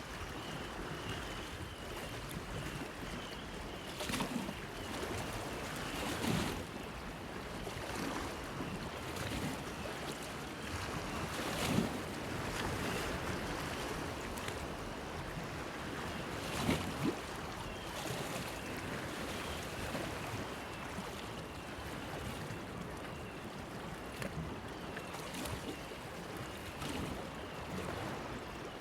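Small waves lapping and slapping against a pier, over a steady wash of water, with a few louder splashes about four, six, twelve and seventeen seconds in.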